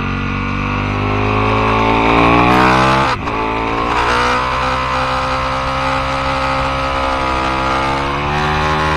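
Aprilia Tuono motorcycle engine under hard acceleration, its revs climbing for about three seconds until a quick upshift cuts the note, then pulling again at fairly steady revs.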